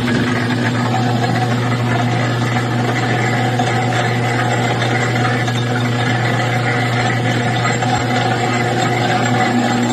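Electric motor of a shop machine running steadily with a constant low hum and higher overtones, while a shotgun muzzle is reamed out to take Invector choke threads.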